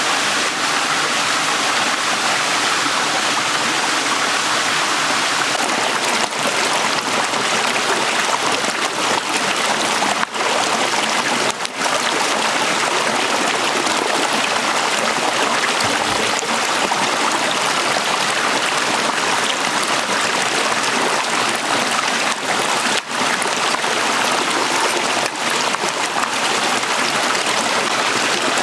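Shallow stream flowing over stones, a steady babbling and gurgling rush of water.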